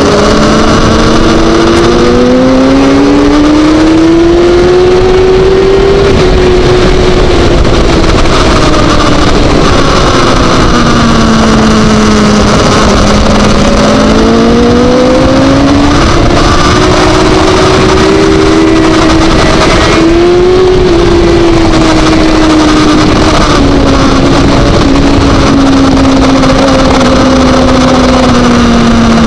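Onboard sound of a supersport racing motorcycle's engine at race pace, heavy wind noise on the microphone. The revs climb for the first six seconds, fall away through the next six as the bike slows for a corner, climb again, dip briefly about twenty seconds in, then ease slowly downward.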